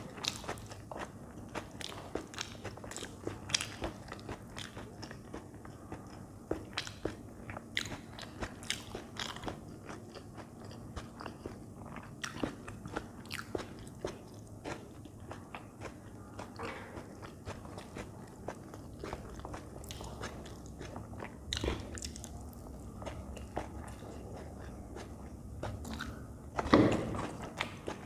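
Close-miked eating sounds from a mouthful of instant noodles with peas, eaten by hand: steady wet chewing with many small clicks and smacks. A louder burst about a second before the end comes as another handful is brought to the mouth.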